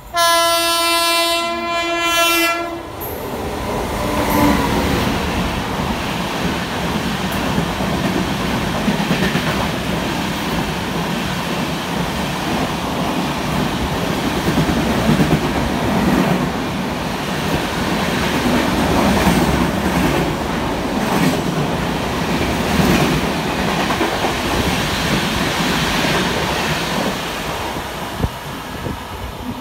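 WAP-7 electric locomotive sounding one long horn blast of about two and a half seconds as it approaches. Then the locomotive and its LHB coaches pass at speed: a loud, steady rush with wheels clattering over rail joints, easing off slightly near the end as the last coach goes by.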